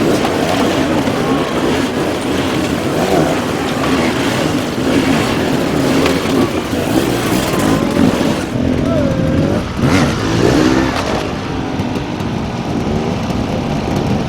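Dirt bike engines revving and labouring, their pitch repeatedly rising and falling, with people's voices mixed in.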